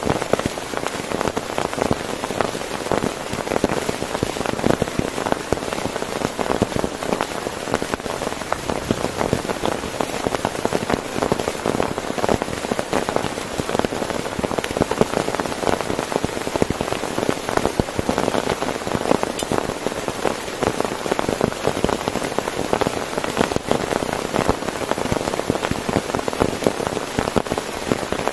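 Heavy rain drumming steadily on a tent, a dense patter of countless drops.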